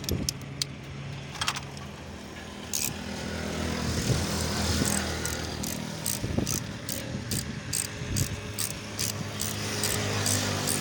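A motor vehicle engine runs with a steady low hum. From about halfway in, a run of light, sharp clicks sounds at about two or three a second.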